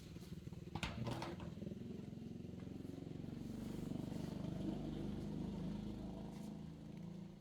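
A small engine running with a low, steady hum that grows louder towards the middle and drops away near the end, with a few sharp knocks about a second in.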